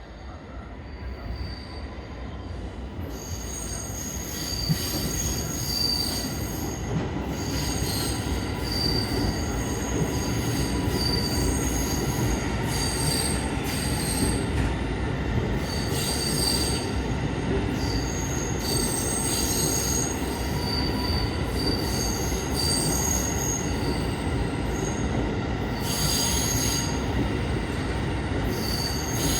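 R211A subway train running on the rails, growing louder over the first few seconds and then holding steady, with its wheels squealing high on and off throughout.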